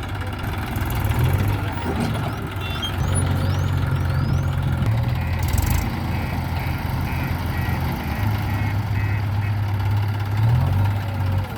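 Massey Ferguson 241 DI tractor's diesel engine running at a steady low idle throughout. A short hiss comes about halfway through, followed by a row of short, even electronic beeps, about two a second, for some four seconds.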